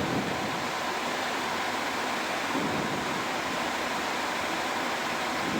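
Steady rushing noise on a Boeing 737-700 flight deck during the climb after takeoff: airflow and air-conditioning hiss, with a faint steady tone.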